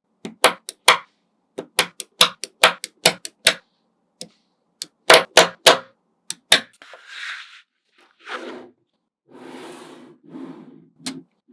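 Small magnet balls clicking sharply against one another as they are snapped into place, in quick runs of clicks. Over the last few seconds, softer rattling scrapes as balls shift and roll together.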